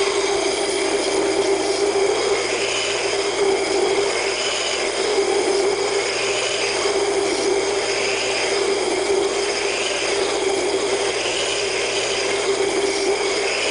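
Double-wheel belt grinder running with 50-grit belts, an O1 tool-steel straight-razor blank being hollow ground against the wheels. A steady machine hum runs under a grinding hiss that swells and fades about every second and a half as the blade is passed across the belt.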